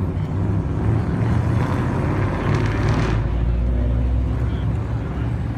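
Car engines and exhausts running as a line of cars rolls slowly past one after another. A louder burst of engine noise builds from about a second in and stops abruptly about three seconds in.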